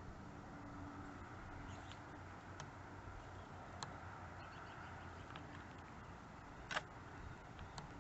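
Faint steady hiss with a handful of isolated sharp taps or clicks, spaced irregularly; the loudest comes near the end.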